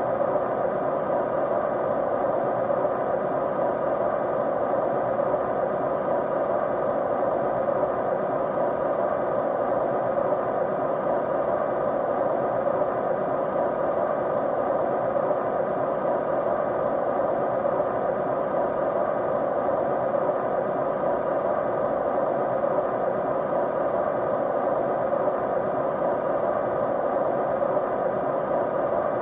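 Steady white noise: an even, unbroken rush, strongest in the middle range and dull in the highs, with no change throughout.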